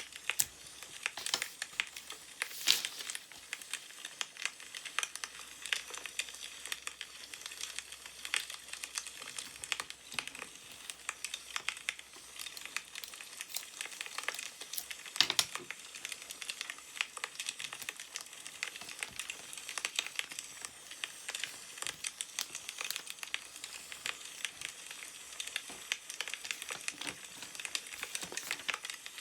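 Wood fire crackling, with dense irregular pops and a couple of louder snaps, one a few seconds in and one about halfway.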